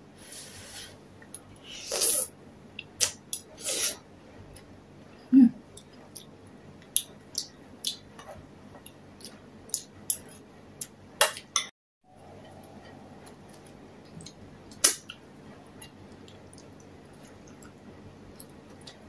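Close-up eating sounds: wet chewing and mouth smacks of soup vegetables and egg, with scattered short clicks of a spoon against a bowl.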